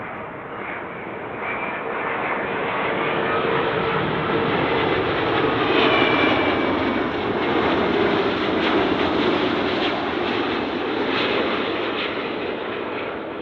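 Jet airliner on short final passing close overhead, its engine noise building to a peak about halfway through and then fading, with a whine that drops in pitch as it goes by.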